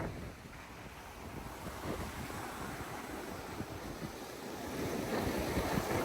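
Pacific Ocean surf washing in steadily, with wind buffeting the microphone; the wash swells louder about five seconds in.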